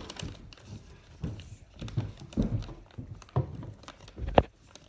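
Hands folding and pressing a sheet of paper on a hard surface: irregular soft thumps with light rustling as the creases are pressed. A sharp knock a little before the end is the loudest sound.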